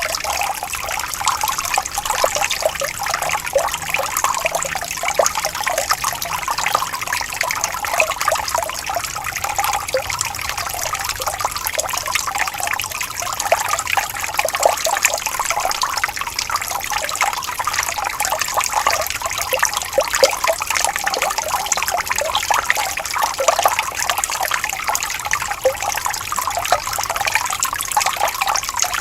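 Water flowing and trickling steadily over stones in a small stream, with continuous close bubbling and splashing.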